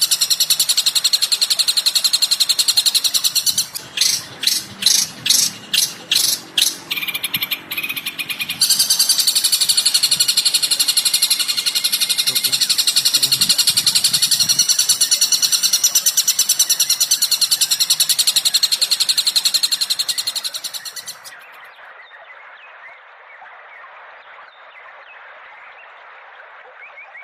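Recorded songbird calls played as a training track: dense, rapid high chirping, broken about four seconds in by a run of about nine loud separate calls, then resuming. About twenty-one seconds in it drops to a quieter, thinner-sounding recording of bird calls.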